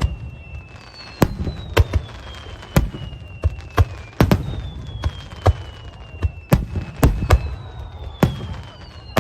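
Aerial fireworks bursting: about a dozen sharp bangs at irregular intervals over a low rumble, with long high whistles gliding slowly down in pitch.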